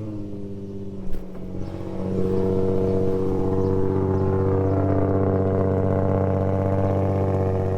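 Car engine just after a cold start, settling into a steady fast idle. There is a brief click about a second in, and the engine gets louder about two seconds in, then holds an even pitch.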